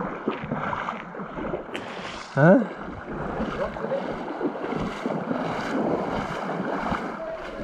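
Stream water running over rocks: a steady rushing noise.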